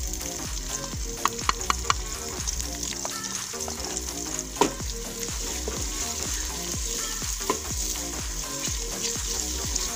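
Chopped tomatoes, onions and green chillies sizzling in hot ghee in an aluminium pot while being stirred with a wooden spoon, with a few sharp clacks of the spoon, a quick run of them about a second in.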